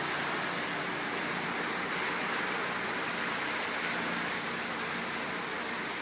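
Heavy hurricane rain pouring down, a steady even rush with no let-up.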